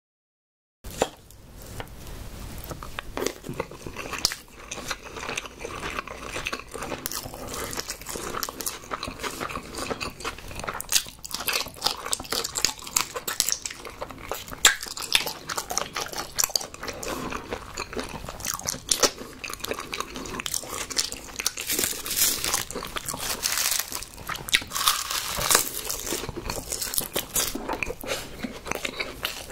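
A person biting and chewing food, with many crisp, crunchy crackles and clicks, starting about a second in.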